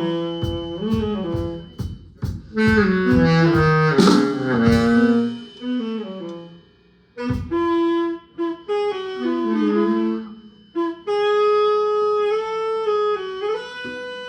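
Band sound check: a sustained-tone melodic instrument plays quick runs and then long held notes, over drum kit hits in the first few seconds.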